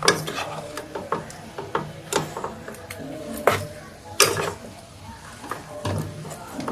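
A spoon stirring in a cooking pot, knocking and scraping against the pot in irregular clinks, a few of them louder.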